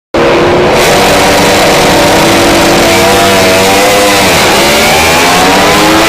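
MotoGP racing motorcycle engine running at high revs, loud and steady, its pitch dipping briefly about four seconds in and then climbing again.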